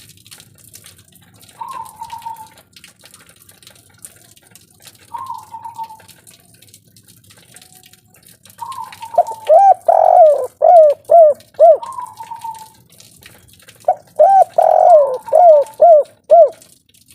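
Spotted dove (tekukur) cooing in two loud bursts of quick repeated notes, one about halfway through and one near the end. A fainter, higher short call repeats every three to four seconds throughout.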